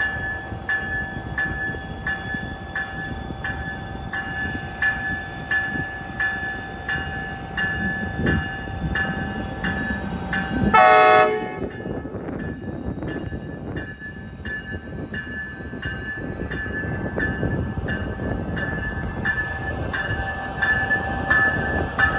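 Grade-crossing warning bell ringing steadily, about one and a half strokes a second, over the rumble of a passing freight train. About 11 seconds in, the locomotive gives one short horn blast.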